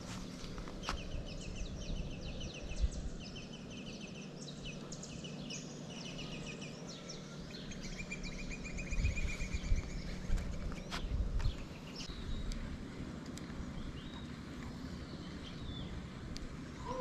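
Songbirds chirping and trilling in quick repeated notes, busiest in the first half. Low rumbling bumps of handling or wind on the microphone come through about nine to eleven seconds in.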